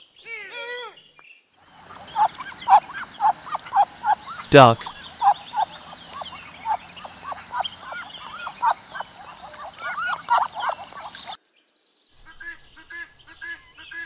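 A flock of ducks quacking: many short calls in quick succession. It is preceded by the tail of a deer's call in the first second. Near the end the sound cuts to fainter, sparser bird calls over a steady high tone.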